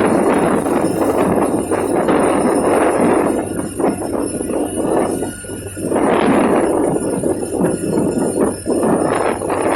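Strong wind buffeting the microphone in uneven gusts, easing briefly about five seconds in before picking up again.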